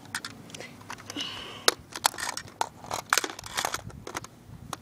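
Plastic clicks, knocks and rattles as a Nerf Super Soaker Thunderstorm water blaster and its clip-on accessories are handled, at an irregular pace of a few sharp clicks a second.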